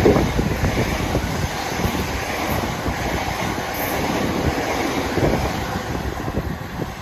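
Passenger train running past on the tracks, its rumble loudest at the start, easing after a second or so and fading away near the end as it moves off.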